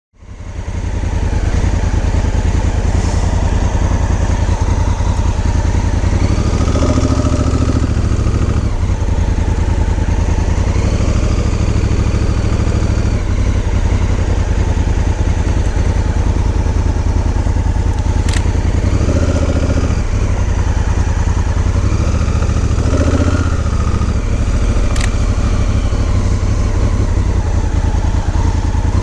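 Honda Africa Twin's parallel-twin engine running steadily under way, a deep even drone with a constant rush of wind and road noise over it.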